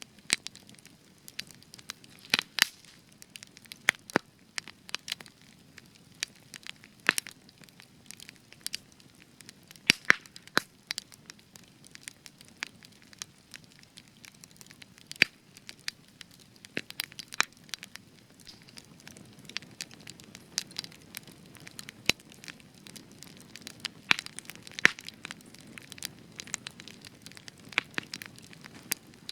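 Spruce-wood campfire crackling: irregular sharp pops and snaps, some loud, scattered over a soft low hiss of the burning fire.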